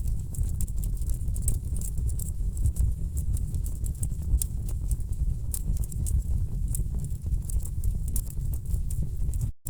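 Wood fire crackling in a fireplace: frequent sharp pops and snaps over a steady low rumble of burning logs. The sound cuts out for a split second near the end.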